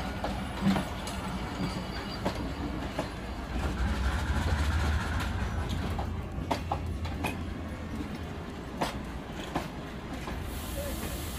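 A train moving along the tracks: a steady low rumble that swells about four seconds in, with scattered clicks and knocks from the wheels and cars on the rails.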